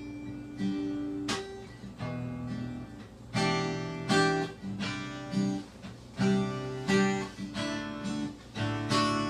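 Acoustic guitar strumming chords: the instrumental introduction of a song.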